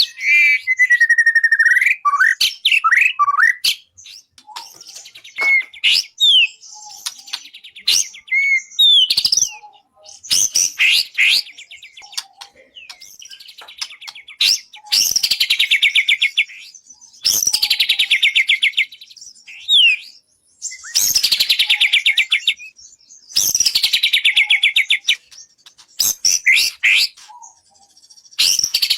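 A murai songbird singing in varied phrases of whistled glides and chirps with short pauses between them. In the second half come several rapid trills of about two seconds each.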